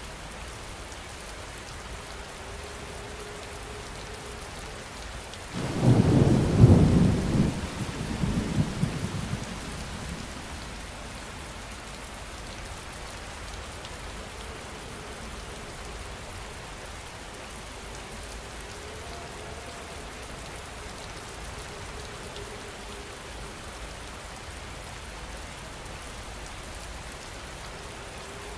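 Steady heavy rain falling, with a loud clap of thunder about a fifth of the way in that rumbles on for a few seconds before fading back into the rain.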